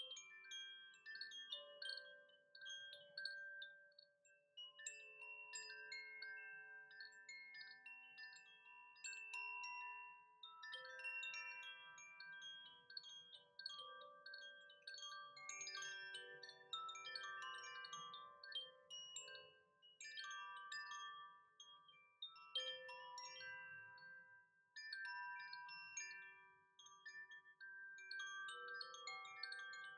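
Chimes ringing faintly, many overlapping notes struck at irregular moments, each ringing on for a second or more.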